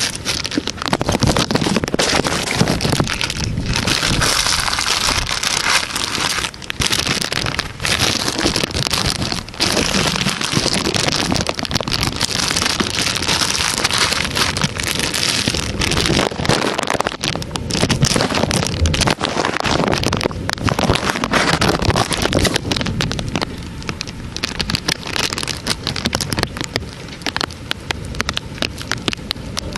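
Heavy thunderstorm rain pelting down, a dense hiss packed with sharp drop impacts, surging louder and easing off somewhat near the end.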